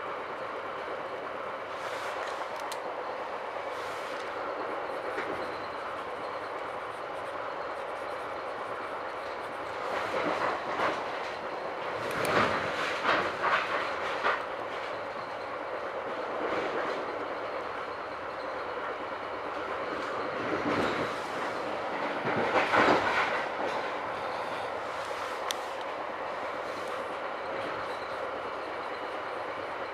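Metra Rock Island Line commuter train heard from inside a passenger car while running: a steady rumble and hiss. It is broken by two spells of louder rapid clacking from the wheels, one about ten seconds in and one a little past twenty seconds.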